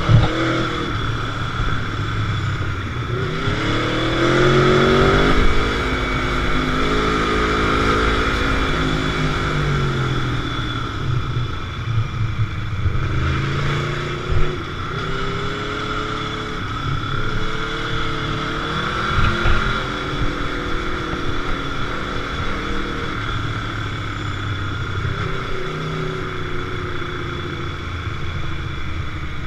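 Motorcycle engine heard from on board while riding, the revs climbing and falling several times as it accelerates and eases off, over constant wind and road rumble.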